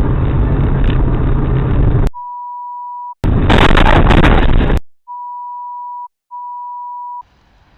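Loud, noisy dashcam audio cut up by three steady one-second beeps at a single pitch, the kind of pure-tone bleep used to censor swearing. One beep comes about two seconds in, the other two near the end, with a second loud noisy burst between the first and second beeps.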